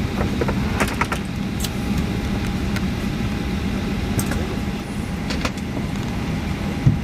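Steady cabin noise aboard a Boeing 737-800 just after landing: a low rumble with a steady hum, broken by scattered light clicks.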